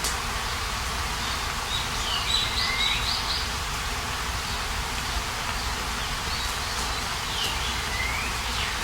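A songbird singing two short phrases of quick, swooping whistled notes, about two seconds in and again near the end, over a steady outdoor hiss.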